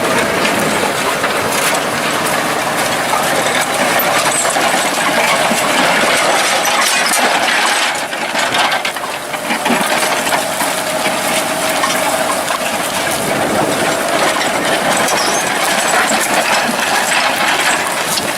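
Tractor engine working steadily under load as it pulls a reversible plough through stony ground, with scattered clicks and clatter over a constant dense noise.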